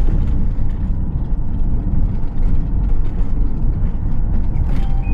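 Renault Master camper van on the move: a steady low rumble of engine and road noise.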